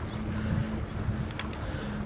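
Wind buffeting the microphone of a camera carried on a moving bicycle, with a low rumble and a steady low hum underneath and a single click about a second and a half in.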